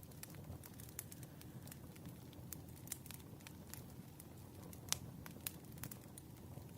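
Wood fire crackling: a low steady rumble of burning logs with frequent sharp pops, the loudest about five seconds in.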